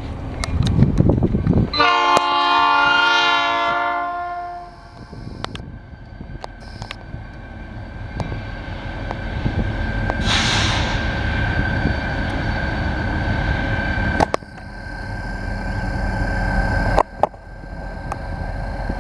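Norfolk Southern freight train: the locomotive's air horn sounds one chord for about two and a half seconds near the start. The train then rumbles past with wheels clicking over the rails, a short hiss about ten seconds in, and a steady high tone after it.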